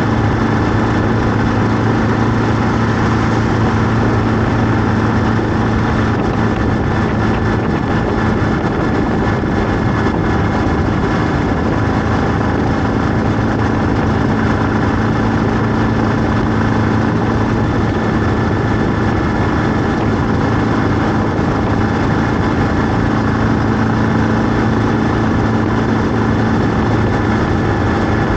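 A vehicle engine running at a steady pitch, with a constant hum and noise over it and no change in speed.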